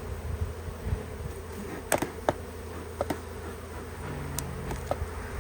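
Honey bees buzzing as a steady hum around an open hive, with a few sharp clicks and knocks from handling the hive parts.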